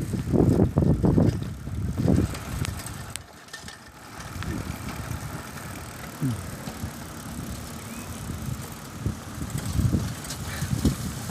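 Riding a bicycle on a street: rumbling wind buffets on the microphone, loudest in the first two seconds, over a steady hiss of road noise.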